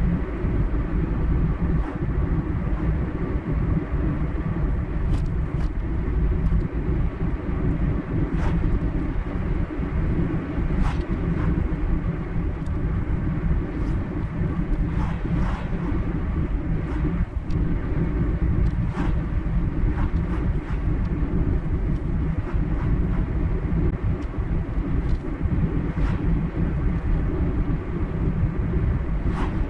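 A car driving at a steady speed: even low road and engine noise, with scattered faint light clicks.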